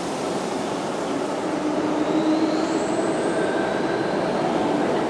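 Underground train rumbling through the station, a steady loud rumble with faint whining tones that rise slightly about two seconds in.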